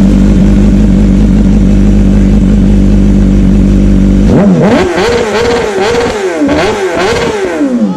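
Sport-bike engine idling loudly and steadily. About four seconds in, it is revved up and down several times in quick succession.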